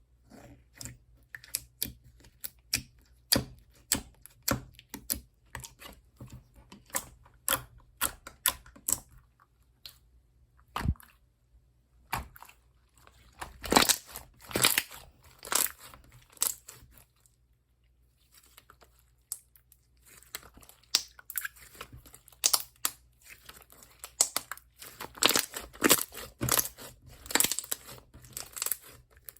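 Soft, melted slime being squished and pressed by hand, giving irregular sticky clicks and pops in clusters, with a couple of short pauses.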